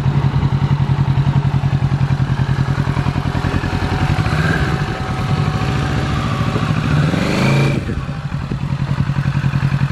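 Kawasaki Z650's parallel-twin engine idling with a steady rapid pulse, with one short throttle blip about seven seconds in that rises and drops back to idle.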